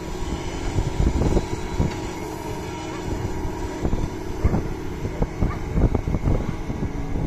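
Doosan DX225 hydraulic excavator's diesel engine running steadily while working sand, with irregular knocks and clanks through it.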